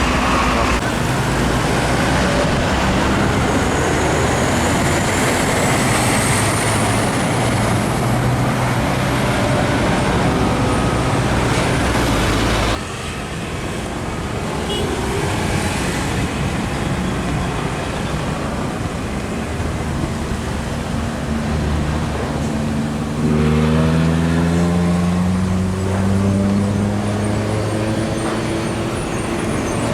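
Heavy trucks passing on a busy road, with continuous diesel engine and tyre noise. The sound drops abruptly about 13 s in. From about 23 s in, one truck's engine rises steadily in pitch as it accelerates.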